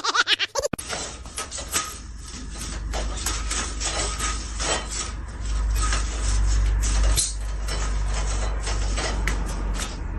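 Irregular knocks, clicks and clatter, like household objects being handled or bumped, over a steady low rumble.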